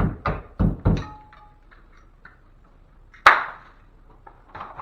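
Four quick dull thumps in the first second, then a single sharp knock about three seconds in. These are impacts on and around a freshly hung drywall ceiling patch as the hanging work is finished.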